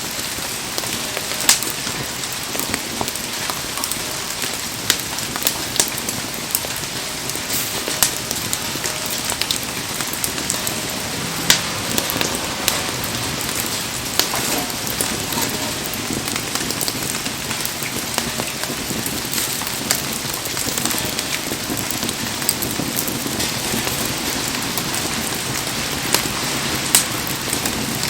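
Heavy rain falling steadily on a wood campfire, with scattered sharp pops and crackles through the steady downpour.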